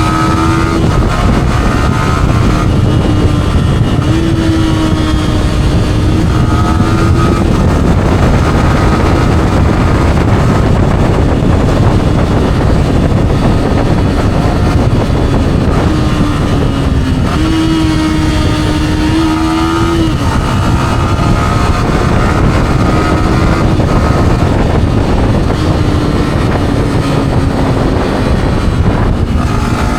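Yamaha R15's single-cylinder four-stroke engine through its stock exhaust while riding, its pitch climbing and then dropping sharply several times with throttle and gear changes. Heavy wind and road noise on the action camera's microphone.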